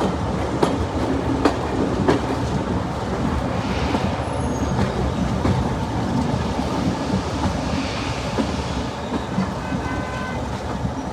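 Heritage diesel-hauled passenger train running along the line, a steady rumble with the wheels clicking over rail joints.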